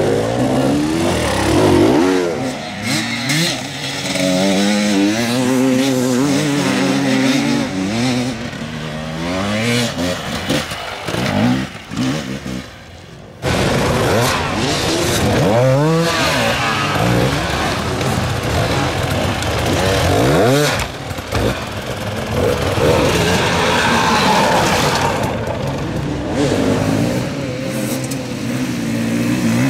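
Hard enduro dirt bike engines revving hard and blipping, pitch rising and falling over and over as the riders work the throttle on rough terrain. The sound drops out briefly about thirteen seconds in, then picks up again.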